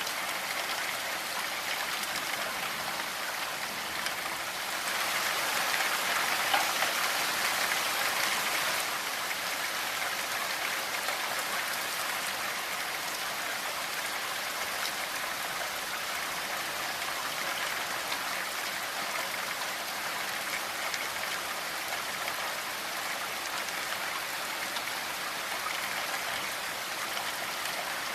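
Steady rainfall, a dense patter of drops, swelling a little heavier for a few seconds near the start.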